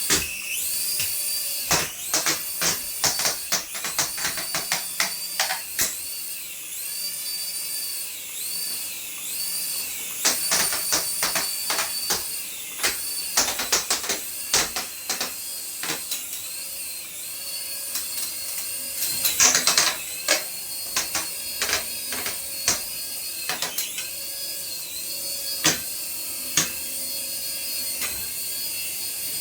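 Small electric toy motor whirring with a high, wavering whine, broken by many quick plastic clicks and rattles, thickest in two clusters in the middle of the stretch.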